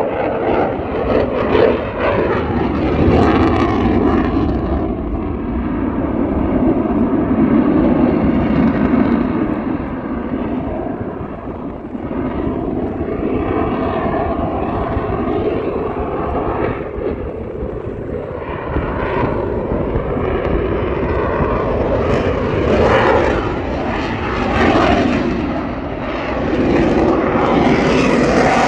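Airshow airplane engine running loud as the aircraft flies past, the engine's pitch and loudness swelling and falling as it passes.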